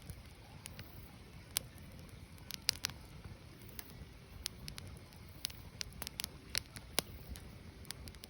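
Firewood burning: irregular sharp crackles and pops, a few a second, over a low steady rumble.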